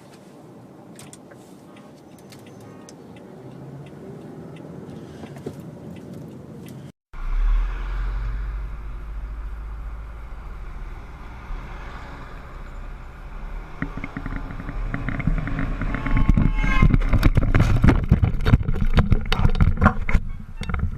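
Vehicle road noise, then an abrupt cut to a louder, heavy low rumble that builds up. It ends in a rapid clatter of sharp knocks over the last few seconds.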